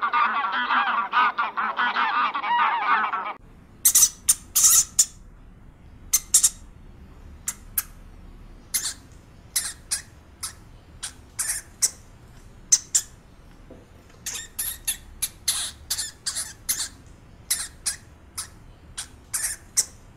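For about the first three seconds, a flock of birds calls noisily in dense, overlapping honks, and this cuts off suddenly. After that comes a hamster gnawing and crunching a piece of food: irregular short, crisp clicks, often in quick clusters of two or three.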